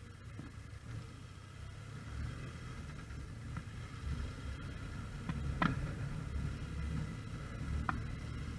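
Motorcycle running along the road: a low, uneven rumble of engine and wind. A few sharp clicks come through, the loudest about five and a half seconds in and another near the end.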